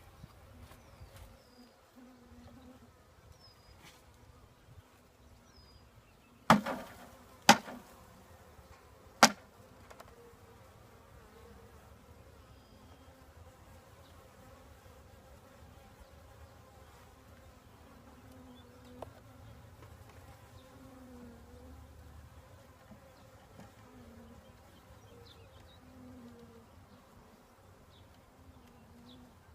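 Honeybees buzzing around an open hive: a steady hum that wavers up and down in pitch as bees fly past. Three sharp knocks come between about six and nine seconds in.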